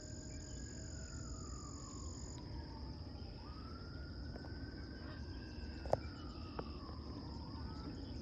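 Steady high-pitched trilling of insects, with a distant siren wailing slowly up and down beneath it, over a low background rumble. A single sharp click about six seconds in.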